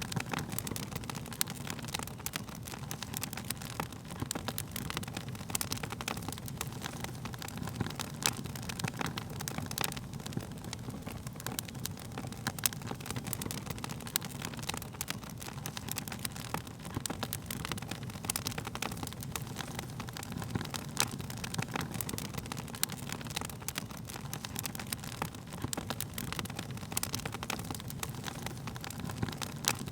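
Wood fire crackling steadily, with many small sharp pops and snaps over a low, even rumble of the flames.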